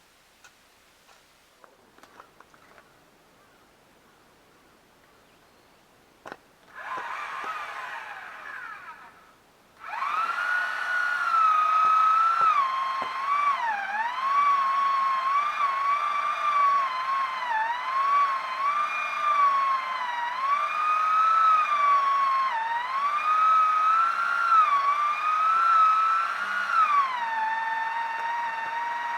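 Two-stroke chainsaw running briefly and dropping off, then running hard at high revs from about ten seconds in, its pitch dipping and rising again and again as it cuts through logs. The first six seconds are quiet apart from a few clicks.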